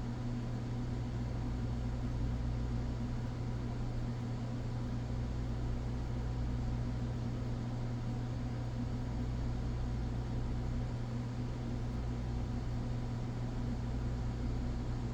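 Steady low background hum with even hiss, unchanging throughout, with no distinct handling noises standing out.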